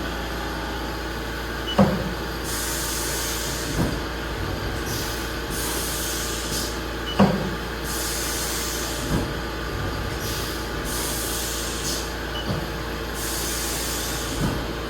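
Haas VF-2SS vertical machining center running with a steady hum, while its automatic tool changer is worked: bursts of air hissing every second or two and several short clunks, two of them louder.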